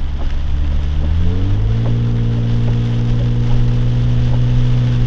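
Lifted Jeep's engine accelerating: its pitch rises over about a second, then holds steady at higher revs.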